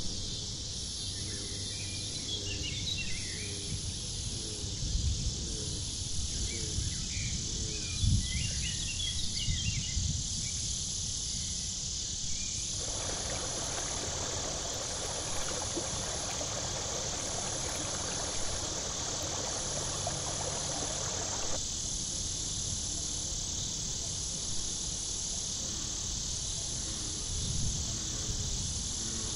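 Tropical forest ambience: a steady, high insect chorus throughout, with scattered bird chirps in the first ten seconds and a stretch of rushing noise in the middle third.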